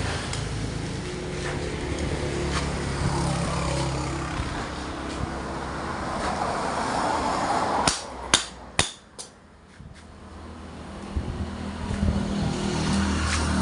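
Bajaj CT100 motorcycle's single-cylinder four-stroke engine running steadily. About eight seconds in a few sharp clicks come, the engine sound drops away for a couple of seconds, then builds back up near the end.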